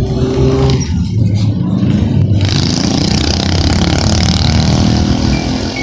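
Loud car engine and exhaust running steadily. A hiss joins in about two and a half seconds in.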